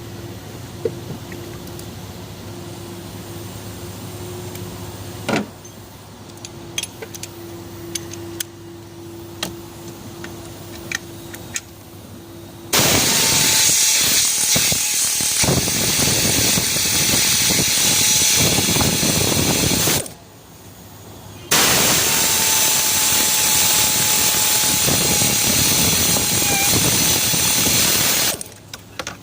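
Light clicks of tools over a steady low hum, then a power tool running loud and hissing in two long runs of about seven seconds each, with a short pause between them.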